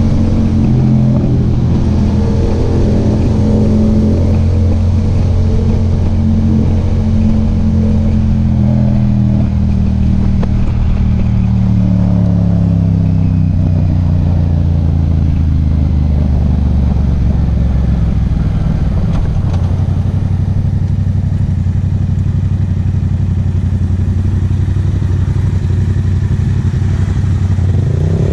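Yamaha MT-07's 689 cc parallel-twin engine running on the move, its pitch slowly falling over about twenty seconds as the bike slows, then holding steady, and rising again right at the end as it is opened up.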